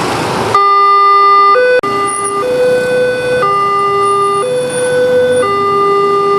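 Railway level-crossing warning alarm switching on abruptly about half a second in: an electronic two-tone signal alternating between a lower and a higher note roughly once a second, warning of an approaching train. Road traffic noise comes before it.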